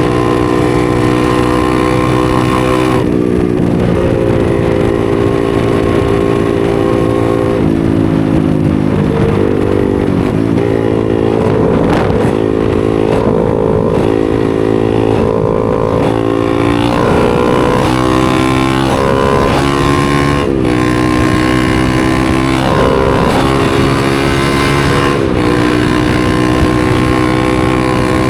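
250 cc supermoto motorcycle engine running while ridden. Its note holds steady, falls about three seconds in and again near eight seconds, climbs around ten seconds, then rises and falls repeatedly in the latter half before settling steady near the end, following throttle and gear changes.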